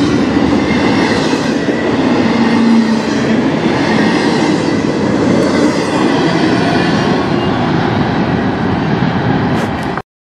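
Double-stack intermodal container cars of a freight train rolling past close by, with a steady rumble and rattle of wheels on the rails. The sound cuts off suddenly near the end.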